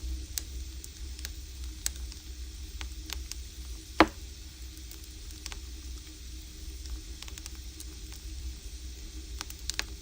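Firewood burning in an agungi, a traditional Korean firebox: scattered small crackles with one loud pop about four seconds in, over a steady low hum.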